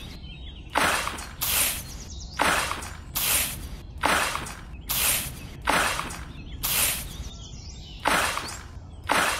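Miniature toy shovel scooping into a pile of sand over and over, a short scraping swish about once a second.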